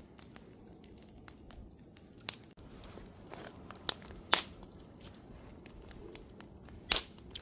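Wood campfire burning with a low steady crackle and scattered sharp pops. The loudest pops come about four and a half and seven seconds in.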